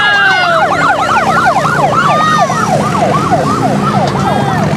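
Several police sirens sounding at once in fast yelping sweeps, rising and falling over and over, with vehicle engines running underneath.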